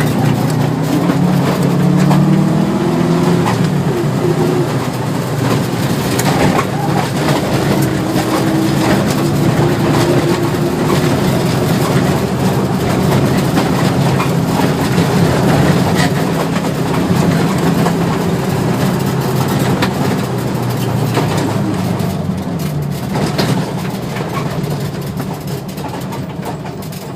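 Rally car engine running hard, its pitch rising and falling as it accelerates and shifts, over a steady rush of road and tyre noise. The sound gets quieter over the last few seconds.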